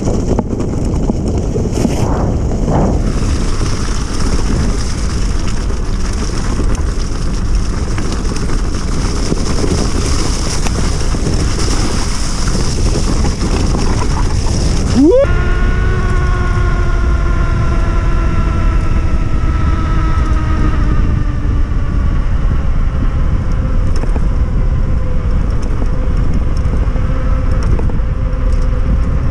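A 3000 W e-bike hub motor running under heavy wind and road noise. About halfway through it gives a sharp rising whine, then a layered motor whine that slowly falls in pitch as the bike eases off.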